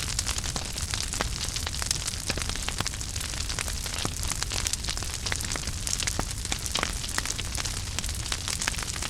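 Wood fire in a fireplace crackling steadily, with many small irregular pops and snaps over a soft hiss and low rumble of the flames.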